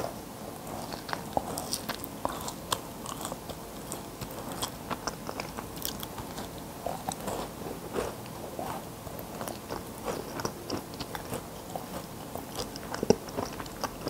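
Close-miked chewing of a Lotte Chic Choc chocolate chip cookie, with bites and many small, irregular crunches.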